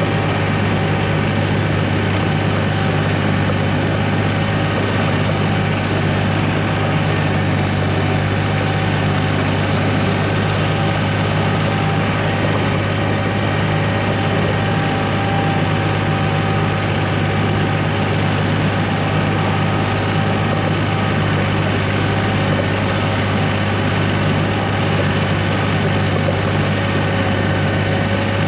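1985 John Deere 1050 tractor's diesel engine running steadily at a constant speed as the tractor pushes snow.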